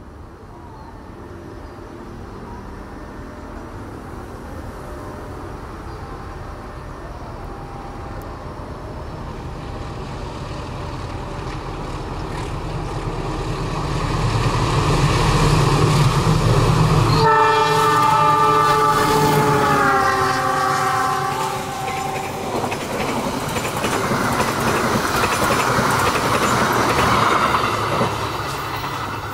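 A diesel locomotive hauling a passenger train approaches, its engine growing steadily louder. It blows its horn for about three seconds as it passes, and the horn's pitch drops as it goes by. Then the coaches roll past with a steady rushing wheel noise.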